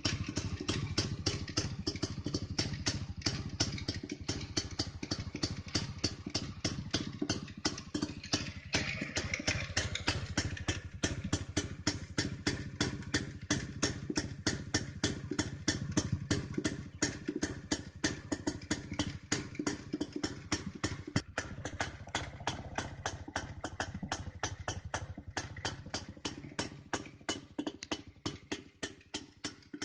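Jawa motorcycle engine idling through its exhaust, with a steady, even rhythm of exhaust beats several times a second.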